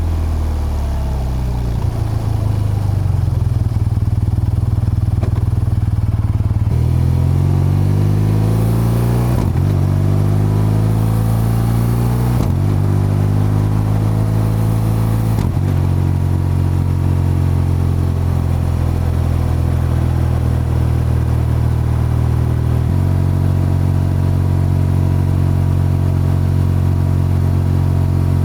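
BMW R12's boxer-twin engine and exhaust accelerating up through the gears, rising in pitch and dropping at each upshift, about four shifts in quick succession. It then settles to a steady cruise.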